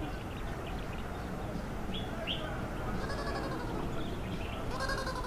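Animal calls: a couple of short chirps, then drawn-out bleating calls about three seconds in and again near the end, with a rapid high buzzy trill alongside.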